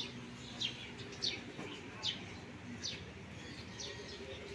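A small bird chirping: a short high note that falls in pitch, repeated evenly about once a second.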